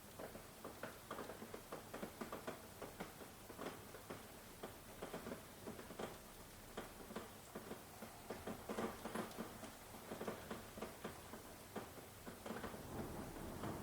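Rain falling, with many irregular drops pattering and dripping close by over a light hiss. A low rumble starts to build near the end.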